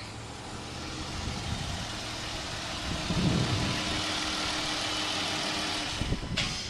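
Chrysler 300's 3.6-liter V6 idling steadily, getting somewhat louder about three seconds in. A short knock sounds near the end.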